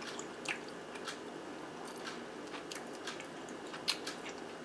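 Close-up chewing of soft baked zucchini boat with melted cheese and ground turkey: scattered short wet mouth clicks over a faint steady hiss.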